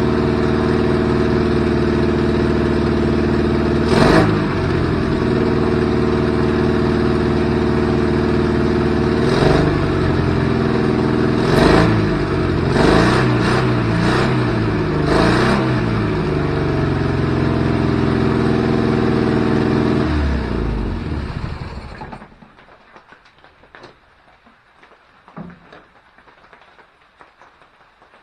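1969 MGB GT's 1.8-litre B-series four-cylinder engine running on choke just after a start, blipped up in revs several times, then the engine sound stops near the end.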